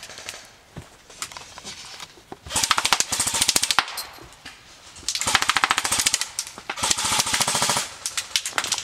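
Airsoft guns firing on full auto: three bursts of rapid shots, the first about two and a half seconds in and the last two almost back to back near the end, with a few scattered single shots before them.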